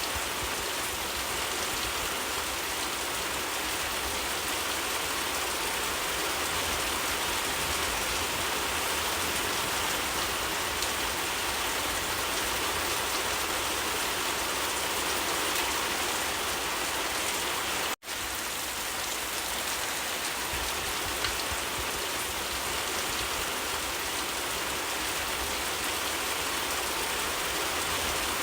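Steady, dense rainfall, an even hiss of rain falling on surfaces. About eighteen seconds in the sound cuts out for a split second and then resumes unchanged.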